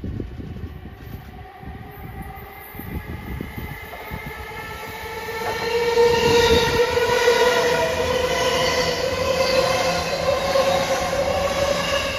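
E259 series Narita Express electric train passing close by, with a whine of several steady tones that builds and is loudest from about halfway through, over a low rumble.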